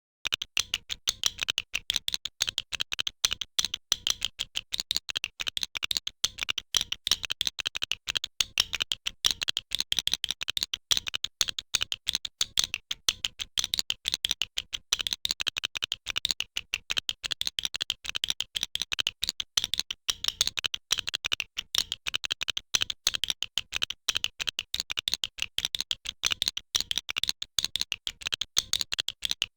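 Plastic LEGO bricks clicking and snapping together, several sharp clicks a second without a break.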